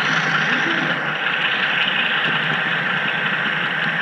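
HO scale model train rolling along the layout's track, heard from a camera riding on the caboose: a steady hiss and rumble of wheels on rail.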